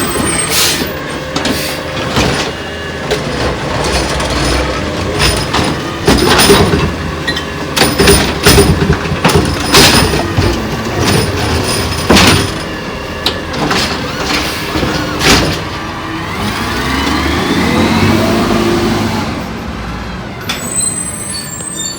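McNeilus ZR rear-loading garbage truck working: its diesel engine running under a string of loud clanks and clatters, then a smooth rise and fall in pitch for a few seconds near the end as the engine revs and falls back.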